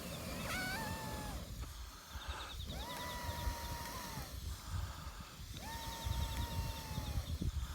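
A metal fire-blowing pipe whistles with a steady tone on each breath blown through it into a campfire: three long blows of about one and a half seconds each, with short pauses between, over a low rushing rumble.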